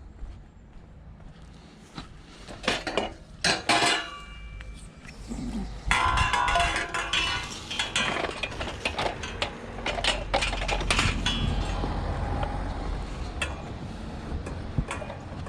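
Scrap metal clanking and rattling as pieces are handled and loaded: a few separate knocks, then a longer stretch of clatter from about six seconds in that tails off.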